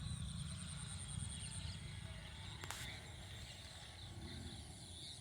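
Outdoor ambience: a low, uneven rumble of wind on the microphone under faint, scattered chirping and a thin steady high buzz, with a single sharp click about halfway through.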